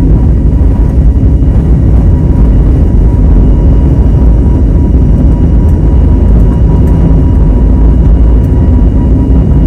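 Jet airliner heard from inside the cabin: a loud, steady low rumble of engine and air noise, with a faint steady whine on top.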